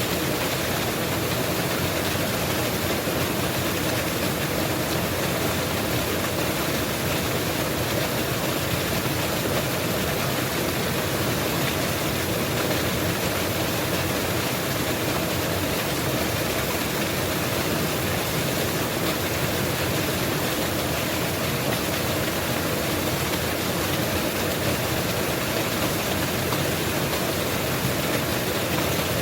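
Mountain waterfall, water falling and splashing in a steady, even rush.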